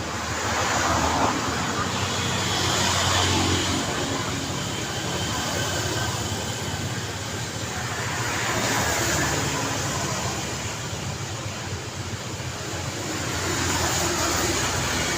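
Road traffic: a continuous wash of vehicle and tyre noise, swelling as vehicles pass about a second in, around three seconds, around nine seconds and near the end.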